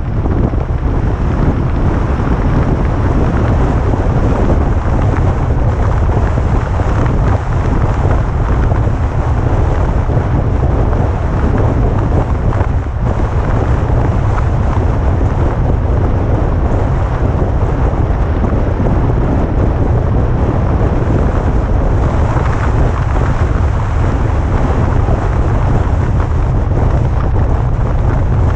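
Wind buffeting the microphone of a vehicle driving downhill: a loud, steady, low rumbling noise with no breaks.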